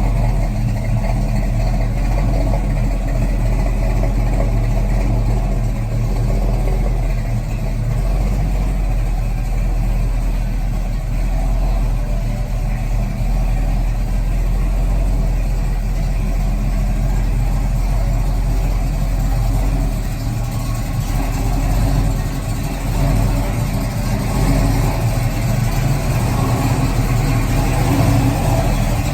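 1988 Chevrolet box Chevy's engine idling steadily.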